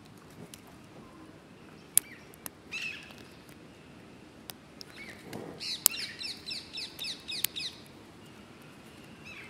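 A bird chirping, with a quick run of a dozen or so repeated falling notes in the second half, while a dry twig close to the microphone gives a few sharp clicks and crackles as it is handled.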